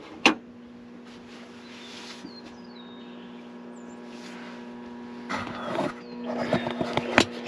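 A sharp click, then a steady electrical hum with a few faint high chirps, and handling clatter with small knocks over the last two seconds or so.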